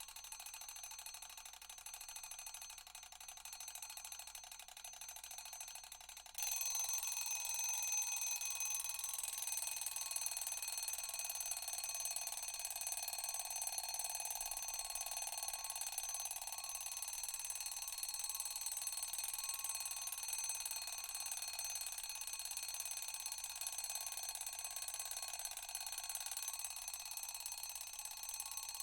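Alarm sound effect: a quieter first few seconds, then about six seconds in a loud alarm starts ringing steadily and keeps on without a break.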